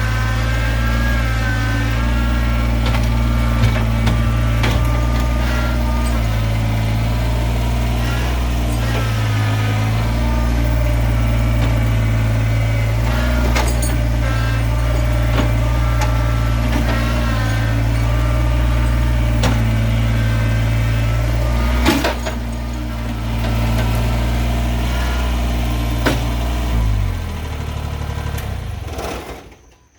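Stihl Farm Boss chainsaw idling steadily, with a few sharp knocks along the way; near the end the engine is shut off and dies away.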